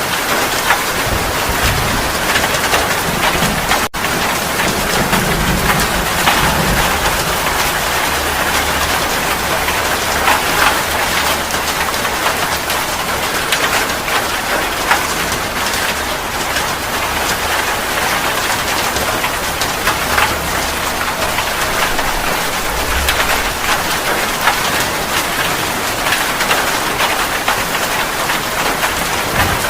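Heavy rain pouring steadily, with low rumbles of thunder, strongest in the first several seconds.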